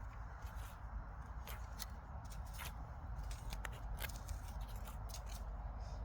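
Soil being dug and scraped by hand to unearth sweet potatoes: irregular short crackly scrapes and rustles over a steady low rumble.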